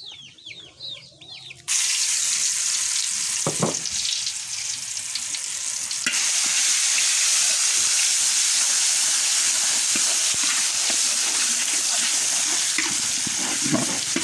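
Ground spice paste frying in hot oil in a large wok, with a steady loud sizzle that starts suddenly about two seconds in and grows louder around six seconds in. A metal spatula scrapes as the paste is stirred.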